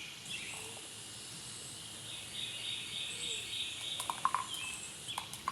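Wild birds chirping outdoors, with a few short, sharp chirps near the end over a steady high background trill.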